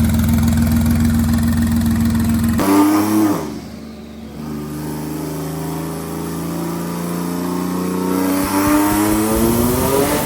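Twin-turbo Nissan VR30 3.0-litre V6 running under load on a chassis dyno. A steady drone gives way about two and a half seconds in to a quick rise, and the note drops a moment later. The engine note then climbs steadily in pitch and loudness as revs build through a pull, and cuts off suddenly.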